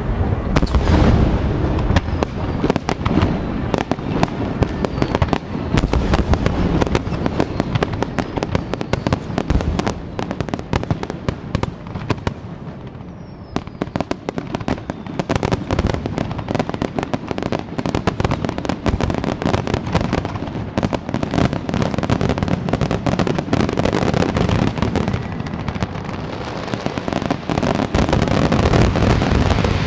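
A fireworks display with shells bursting in rapid succession, a dense run of bangs and crackles. The barrage thins out about halfway through, then builds again to its thickest just before the end.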